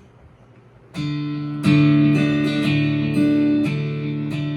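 Acoustic guitar strumming chords as a song's intro, starting about a second in with a new strum roughly every half second.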